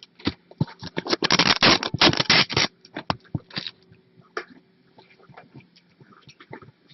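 Kittens' paws and claws scrabbling and pattering: a dense run of rapid scratchy taps for the first two to three seconds, then scattered lighter taps.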